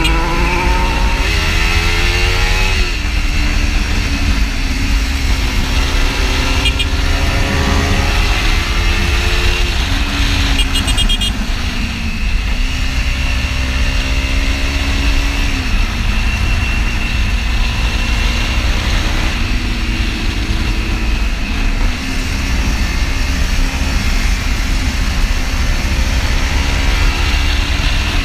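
Small parallel-twin sport-bike engine pulling up through the gears while riding: its pitch climbs and drops sharply at each upshift, several times. Heavy wind noise buffets the mic throughout.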